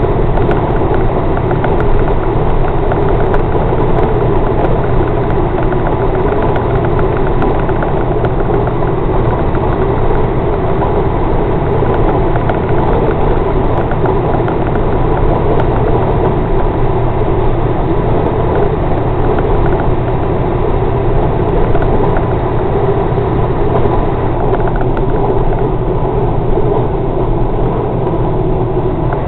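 Scania Torpedo bonneted truck's diesel engine running steadily on the motorway, a constant low drone with no gear changes or revving.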